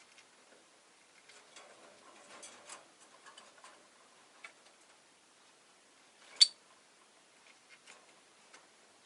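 Rosy-faced lovebird moving about, making scattered faint clicks and taps, with one short, sharp, much louder sound about six and a half seconds in.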